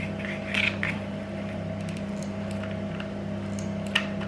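Rope and a hot glue gun being handled: soft scratchy rustles about half a second in and a single sharp click near the end, over a steady low hum.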